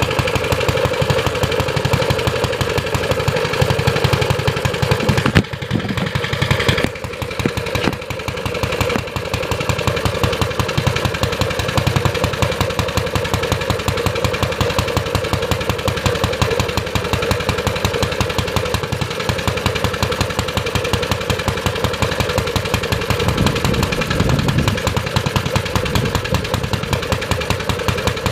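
Briggs & Stratton Model FH single-cylinder engine running, firing in a rapid, even beat, with a brief dip in level and a rougher patch about five to nine seconds in.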